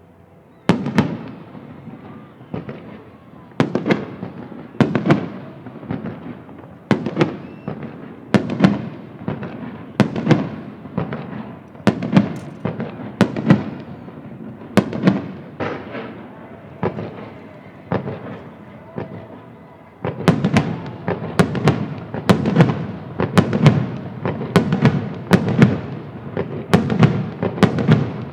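Aerial fireworks shells bursting, sharp booms about once a second, each trailing off in a rumbling echo; about twenty seconds in the barrage turns denser and faster.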